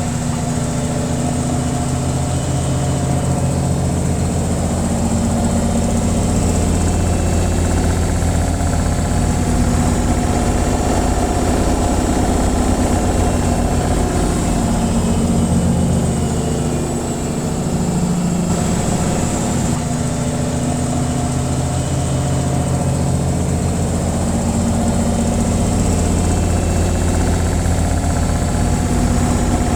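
Washing machine running its spin cycle: a steady low hum with a thin high whine above it, easing slightly about halfway through.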